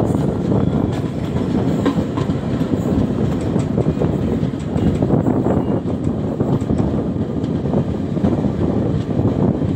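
Passenger train coach running along the track, heard from on board: a loud, steady rumble of wheels on rail with occasional light knocks.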